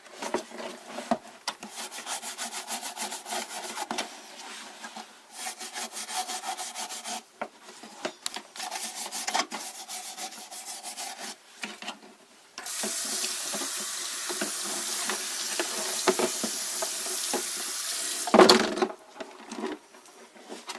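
Scrubbing strokes on humidifier parts for about twelve seconds, then a tap running into a sink for about six seconds, cut off by a loud knock.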